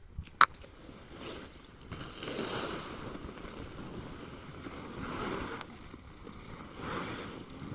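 Storm wind gusting, a rushing noise that swells and fades in three surges, with a sharp click about half a second in.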